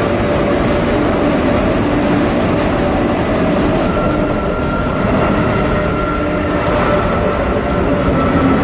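High-speed train running at speed: a steady, loud rush of noise with a faint steady whine, its top end dropping away about four seconds in.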